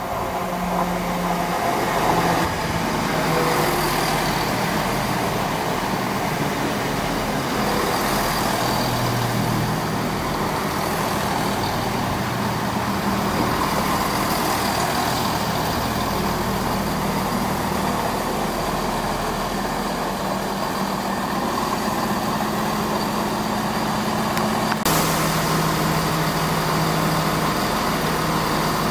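Chiltern Railways diesel multiple unit running into the station alongside the platform and drawing to a stand, with a steady diesel engine note under wheel and rail noise. Near the end there is a sudden sharp sound.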